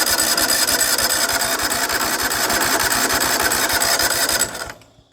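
Electric starter cranking the cold 17 hp V-twin engine of a John Deere LT180 lawn tractor, choke on. The engine turns over in fast, even pulses without firing: a failed start. The cranking stops about four and a half seconds in.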